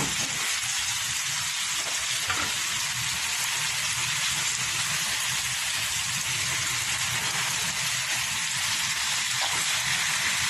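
Boiled chicken gizzards frying in a hot pan, a steady sizzling hiss as they are sautéed for adobo, with a couple of faint knocks from stirring about two seconds in.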